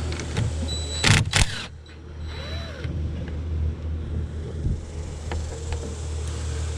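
Two sharp metal knocks close together, about a second in, from hand work on the truck's wiring at the battery, over a steady low hum, with a few faint ticks later.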